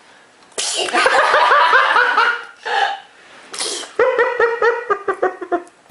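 High-pitched laughter in two runs of quick, rhythmic 'ha' pulses, with a short breathy burst between them.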